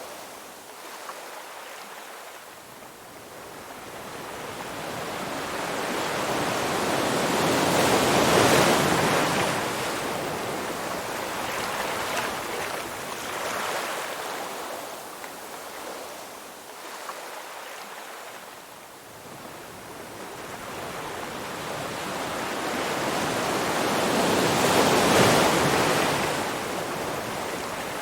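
Ocean surf: a wave's rushing wash builds to a peak about a third of the way in, ebbs, then a second wave swells to a peak near the end.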